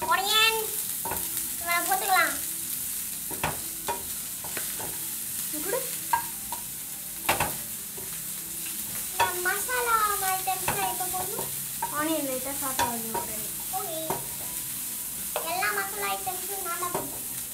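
A spatula stirring and scraping around a kadai, with sharp taps and squeaky pitched scrapes, over a steady sizzle of food frying in hot oil.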